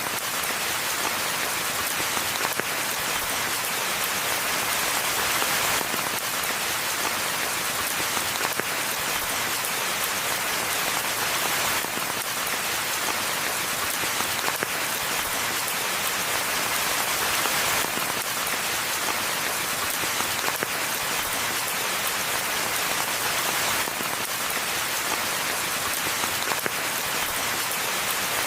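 Steady rain falling in a forest: a dense, even hiss of rainfall with scattered individual drops ticking through it.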